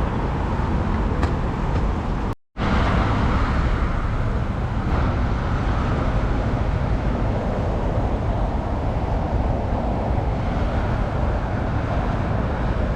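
Steady outdoor street ambience of road traffic noise, with a deep low rumble. The sound cuts out completely for a moment about two and a half seconds in.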